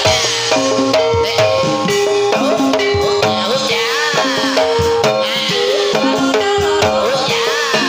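Javanese gamelan music accompanying a kuda kepang horse dance: hand drums beating a busy rhythm under mallet-struck metallophones playing a repeating melody.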